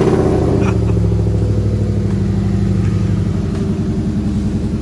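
Ford Coyote 5.0-litre V8 idling steadily just after being started, a loud, even engine note with a fast regular pulse.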